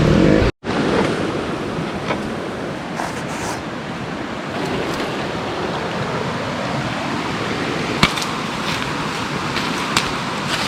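Steady rushing of water, an even hiss with no rhythm, broken by a brief dropout about half a second in and a few light clicks, the sharpest about 8 s in.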